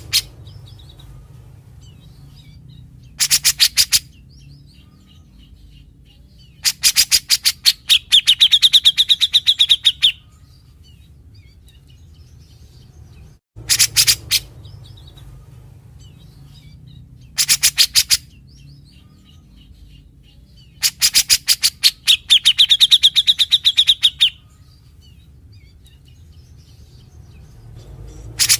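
Cucak jenggot (grey-cheeked bulbul) singing: short bursts of rapid, scratchy rattling notes, then a longer rattle that runs into a fast trilled whistle, the whole phrase given twice over a steady low hum.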